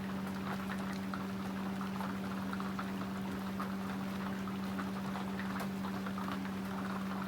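A steady low hum with faint, irregular ticking and pattering over it.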